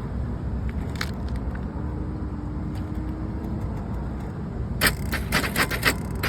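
Steady low rumble of traffic, then about five seconds in a rapid run of sharp clicks and rattles, several a second.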